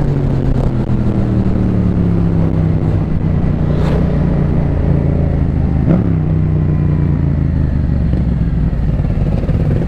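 Beta 480 RR supermoto's single-cylinder four-stroke engine running, its pitch falling slowly as the revs drop. Two brief knocks come about four and six seconds in.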